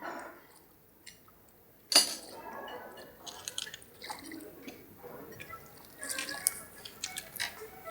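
Clinks and knocks of dishes and cutlery, with a sharp knock about two seconds in, followed by irregular clicks and some liquid sounds.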